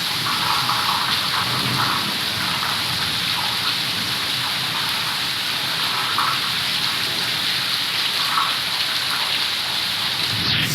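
Heavy rain falling steadily, an even rush with a few brief louder splashes.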